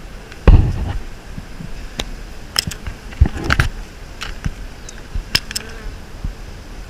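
Honey bees buzzing around an opened hive, with scattered clicks and knocks from handling the comb; the loudest is a thump about half a second in.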